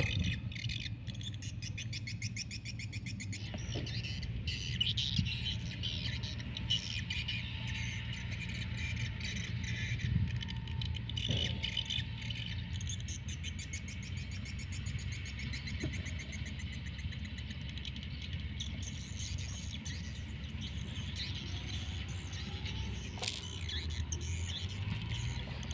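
Birds chirping and twittering in quick repeated calls, over a thin steady high-pitched whine.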